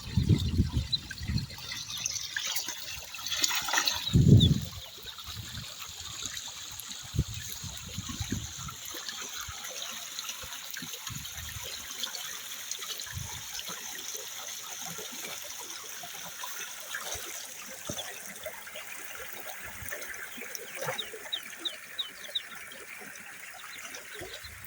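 Rain falling steadily, a continuous hiss with water trickling. A few low thumps in the first four seconds, the loudest about four seconds in.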